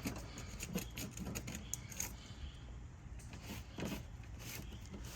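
Scattered light clicks and short rustles, irregularly spaced, as hands pick leaves and loose debris out of a truck's engine bay, over a low steady hum.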